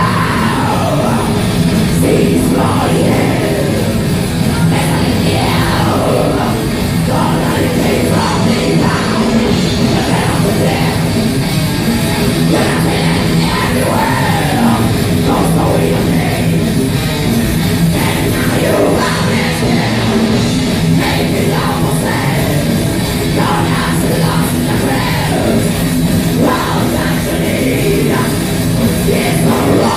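Live heavy metal band playing loud and steady throughout, with a vocalist singing and yelling over the band.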